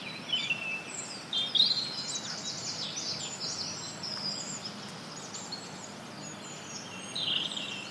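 Several forest birds chirping and trilling in quick, overlapping high calls over a steady hiss of added white noise.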